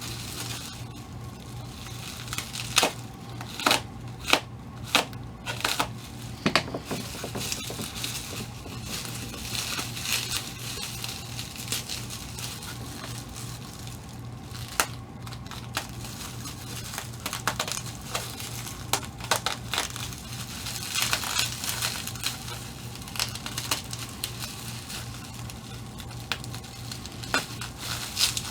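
Packaging being unwrapped and crumpled by hand, crinkling and rustling, with sharp clicks and taps as small pieces are handled, several close together a few seconds in. A steady low hum runs underneath.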